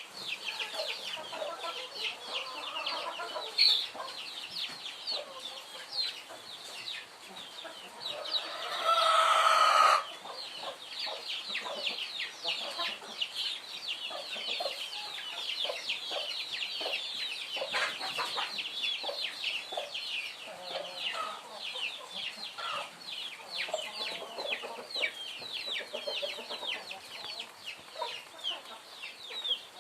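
A flock of chickens clucking over a dense, continuous stream of high peeping calls. A rooster crows once, loudly, about eight seconds in.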